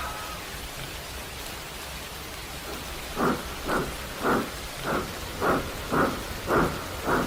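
Steady rain hiss. About three seconds in, a steam locomotive starts chuffing slowly and evenly, about two puffs a second.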